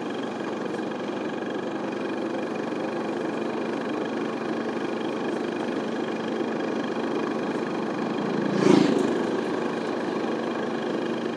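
Steady engine hum and road noise of a moving vehicle, with a brief louder swell about nine seconds in.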